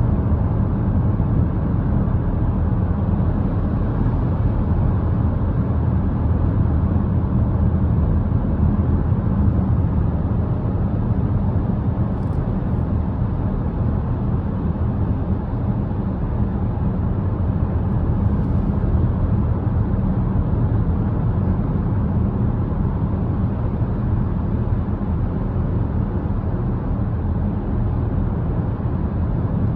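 A road vehicle driving at steady speed: an even, low rumble of engine and tyre noise that does not change.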